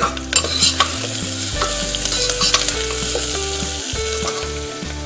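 Chopped onions frying in hot mustard oil in a pressure cooker, sizzling steadily. A spoon scrapes and taps against the pot as they are stirred, with a few sharp clicks in the first second.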